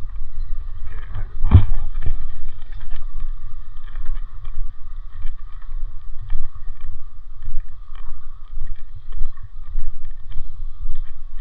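Wind buffeting the microphone in an uneven rumble, over a steady faint whine. One sharp thump comes about one and a half seconds in.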